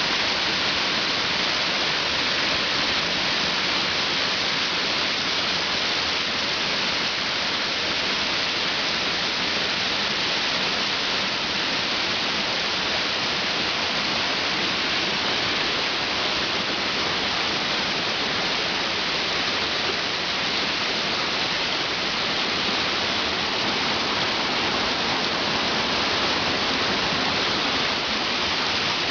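A waterfall pouring with a steady, even rush of water, unchanging throughout.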